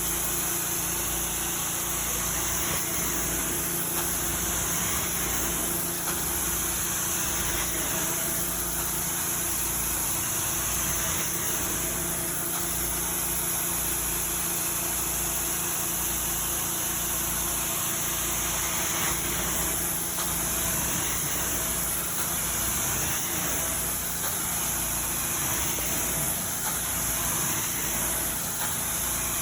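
Carpet-cleaning machine running steadily: a constant motor hum under a strong, airy hiss, with no change in pitch or level.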